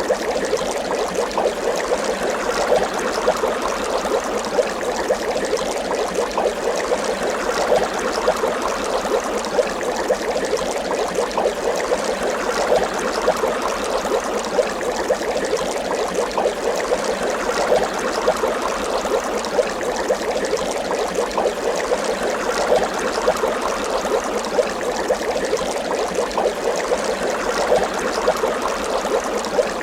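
Water bubbling steadily, a continuous stream of small bubble pops.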